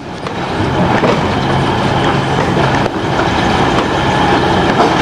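Diesel multiple-unit train running along the track toward the listener: a steady engine drone with the rumble and clatter of wheels on the rails, fading in over the first second.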